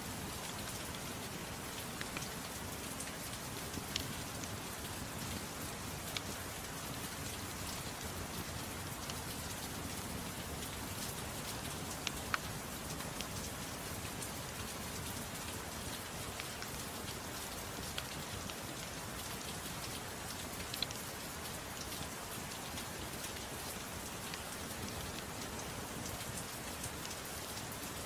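Steady soft rain hiss with a crackling wood fire: occasional sharp, isolated pops stand out above the rain, the strongest about twelve seconds in.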